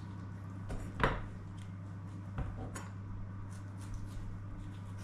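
A knife cutting tomatoes on a cutting board: a sharp knock about a second in, a second knock a little later and light clicks between, over a steady low hum.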